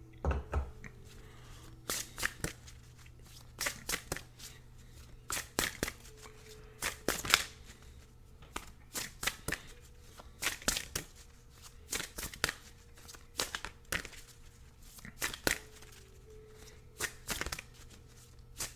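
A deck of oracle cards being shuffled by hand: repeated bursts of quick card slaps and flicks, a cluster about every second and a half to two seconds.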